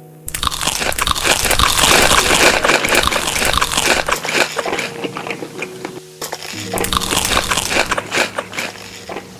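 Close-miked crunchy biting and chewing of food, with dense crackly crunches that break off briefly about six seconds in and then resume. Soft background music plays underneath.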